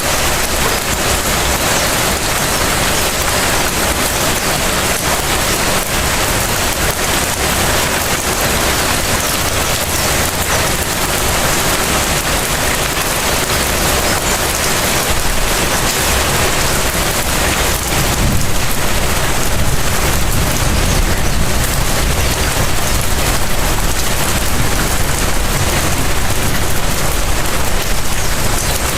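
Steady rain falling and pattering on surfaces, a dense even hiss with many small drop ticks, a little heavier in the second half.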